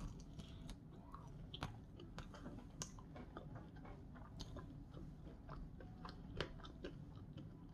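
A person chewing a mouthful of crispy breaded chicken tender, close to the microphone. It is faint, with many small irregular crunches and mouth clicks.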